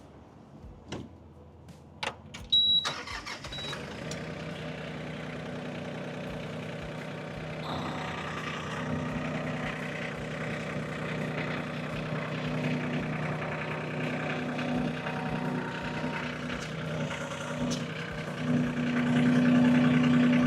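LS MT226 compact tractor's diesel engine starting about three seconds in after a few clicks, then running steadily at low revs while the front loader raises a 4x5 round bale. The engine picks up about eight seconds in, and a louder steady hum rises over it near the end as the loader lifts, at about 1200 rpm.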